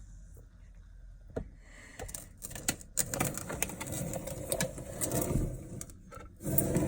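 Handling noise: rustling and scraping with scattered sharp clicks, sparse at first and busier from about two seconds in, then louder near the end.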